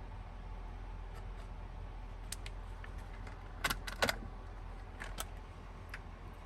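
A few light clicks and clinks, two louder ones close together about four seconds in, over a steady low hum.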